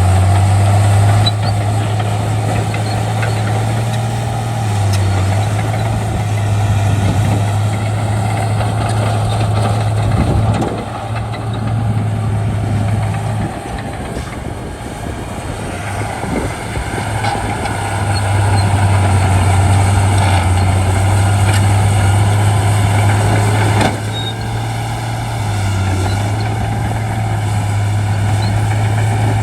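Shantui bulldozer's diesel engine running steadily with a deep, even drone; about a third of the way in the engine note drops away for several seconds, then comes back strong.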